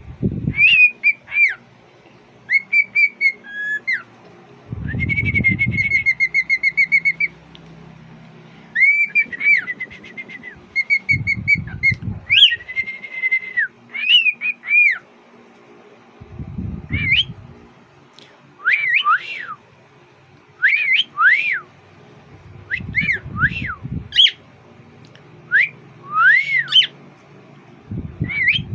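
Young cockatiel singing a whistled song in repeated phrases of held notes, warbles and up-and-down swoops, somewhat off-key. Short, low, muffled bumps come in every few seconds.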